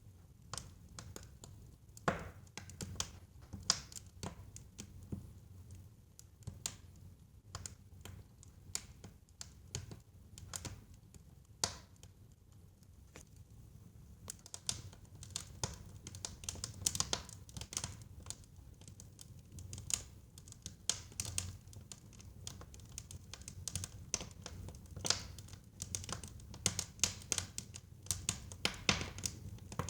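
Wood fire in a fireplace crackling and popping: irregular sharp snaps over a low steady rumble of the flames, the pops growing more frequent about halfway through.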